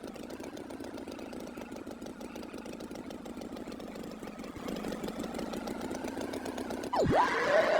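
A steady engine running, rising slightly about five seconds in. Near the end a quick swoop falls and rises sharply in pitch, and a held tone follows, louder than the engine.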